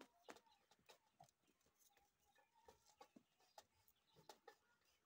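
Faint, scattered short chirps, like small birds, with light clicks in between.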